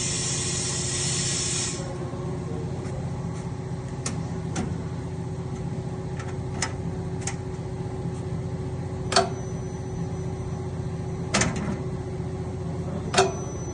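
Large duvet and blanket washing machine running: a hiss of water cuts off about two seconds in, leaving a steady motor hum with occasional sharp clicks and knocks.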